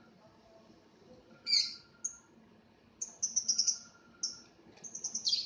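Lovebird chirping with shrill, high calls: a single call about 1.5 s in, then quick runs of rapid chirps from about 3 s in and again near the end.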